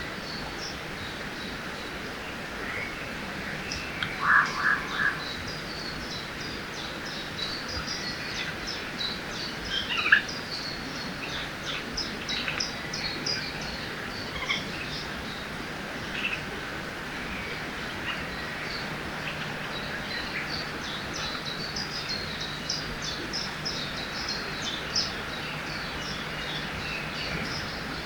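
Forest ambience by a river: a steady rush of flowing water under many birds chirping. A louder bird call of about four quick notes comes about four seconds in, and a single sharp call comes about ten seconds in.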